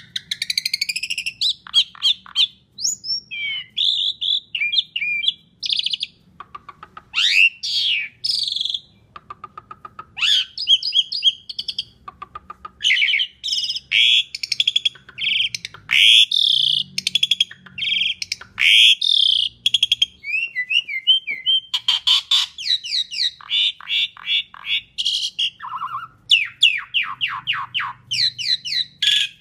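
Asian pied starling singing a loud, varied song: clear whistled notes and glides mixed with fast rattling chatters and buzzy trills, one phrase after another with only short gaps.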